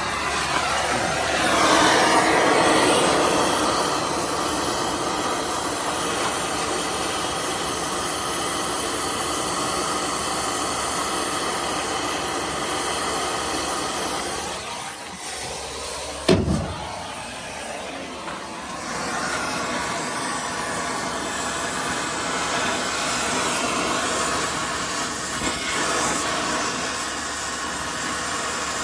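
Oxy-fuel cutting torch hissing steadily while it cuts through a truck's rear axle. A single loud thump comes about 16 seconds in.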